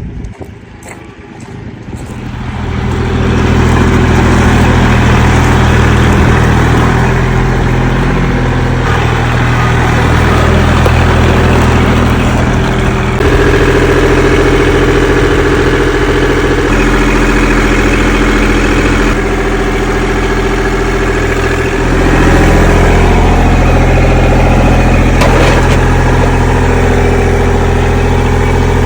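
Vehicle engine running steadily, coming up to full level over the first few seconds, with its note shifting twice, about halfway through and again later.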